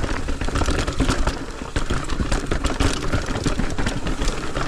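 Mountain bike rolling over a rocky trail: the bike rattles and clatters with many quick knocks as the tyres hit rocks, over a constant low rumble.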